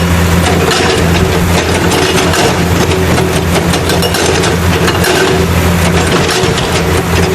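Steady, loud sound of a heavy engine running with a dense rattle, played for a toy stone-crusher truck. It holds unchanged with no build-up or fade.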